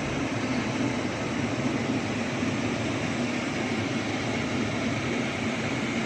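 Steady mechanical running noise from a vehicle or motor, an even hiss with a low hum that holds level throughout.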